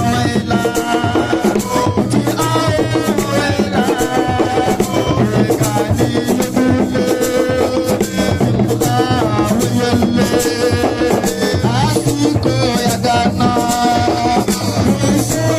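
Live band music: a melodic line over busy, driving drums and a shaker rattle, playing at a steady loud level.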